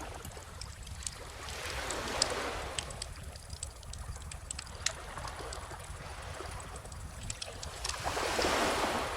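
Bonfire crackling, with scattered sharp pops, over calm ocean waves washing in: one swell about two seconds in and a larger one near the end.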